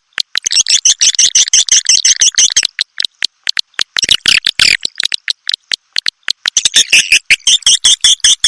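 Recorded swiftlet calls used to lure swiftlets to a nesting house: fast, dense chattering trains of high chirps and clicks. There is a short lull about three seconds in and sparser clicking a little past halfway before the chattering picks up again.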